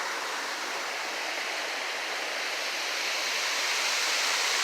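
Steady rush of water from a small waterfall, growing a little louder about three seconds in.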